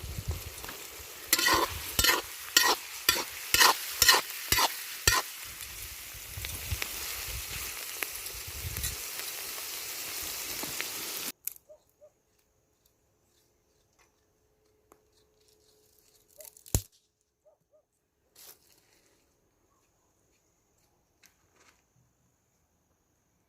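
Food frying in a kazan, sizzling steadily while it is stirred with about ten quick scrapes in the first few seconds. About halfway through, the sizzle cuts off suddenly, leaving near silence with a few faint clicks and one knock.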